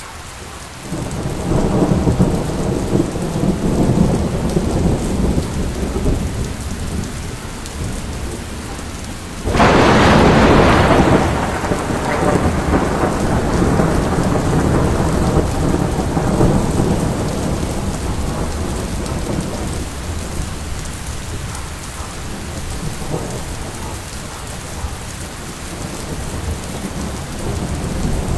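Steady rain with rolling thunder; a loud thunderclap breaks in about a third of the way through and rumbles away over several seconds.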